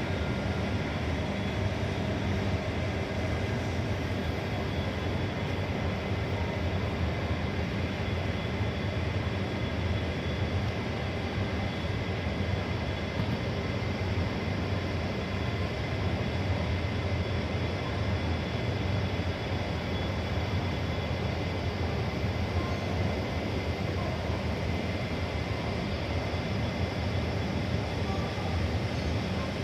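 A steady mechanical drone with a low hum and a few faint steady whining tones, unchanging throughout.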